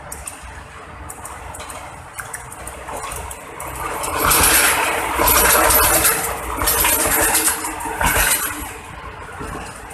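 PT INKA DHMU 8000 class diesel-hydraulic multiple unit passing close by, its wheels clattering and clinking over the rails. The sound builds from about three seconds in, is loudest from about four to eight and a half seconds, then falls away as the train goes off.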